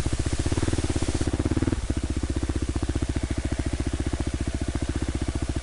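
Single-cylinder enduro motorcycle engine idling, a rapid even pulsing, with a slight change in its note about two seconds in.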